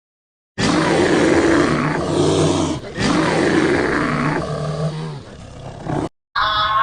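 A big cat roaring in long, low, drawn-out calls, with a short break partway through, then fading away.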